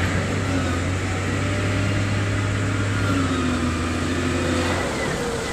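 Diesel engine of a heavy construction machine running steadily: a low hum with fainter tones above it that slowly rise and fall. The hum drops away a little before the end.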